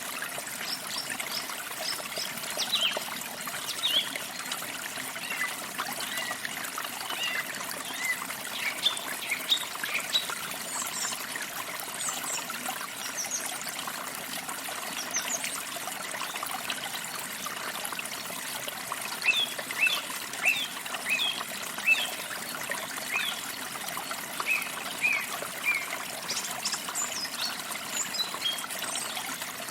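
A forest stream trickling steadily, with songbirds chirping over it in short bursts of high notes, busiest in two spells.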